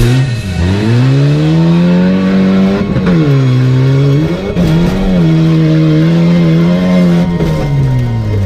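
Demolition race car's engine running hard at high revs. The pitch climbs and holds, drops sharply about three seconds in, climbs again, dips briefly a moment later, then holds steady.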